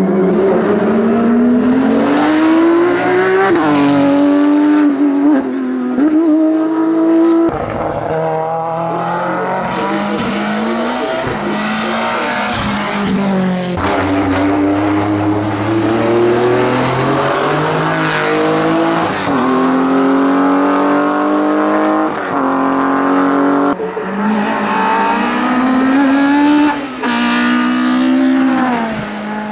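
Race car engine at full throttle, its pitch rising through each gear and dropping sharply at every gear change, about eight times.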